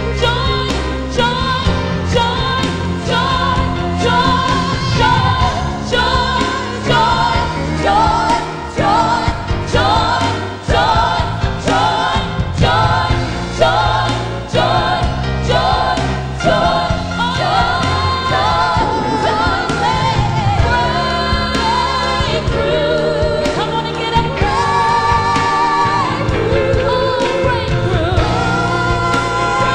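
Gospel music: singing over a band with a steady beat, with choir voices.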